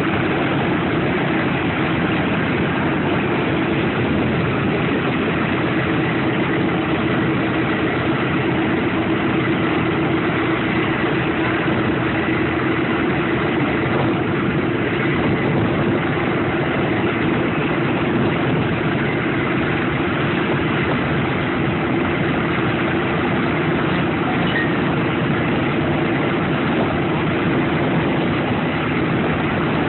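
B-17 Flying Fortress's Wright R-1820 Cyclone radial piston engines running steadily at idle after start-up, with an even, unchanging pitch.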